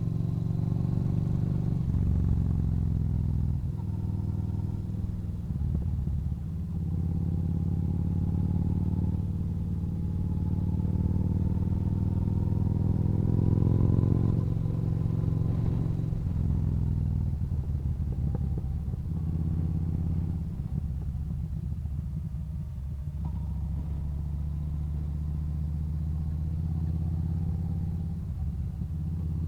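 Yamaha Bolt's air-cooled V-twin engine running while the motorcycle is ridden along a winding road. The engine note climbs for several seconds, drops about halfway through, then rises and falls again as the rider works the throttle.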